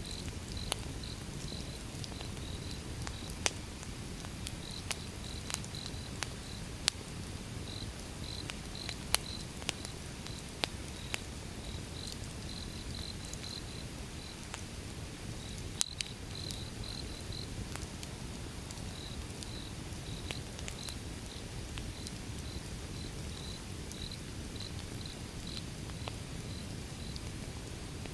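Firewood burning: a steady low rumble of the fire with sharp crackles and pops from the logs, scattered through and loudest about sixteen seconds in. Short high-pitched chirps recur throughout behind the crackling.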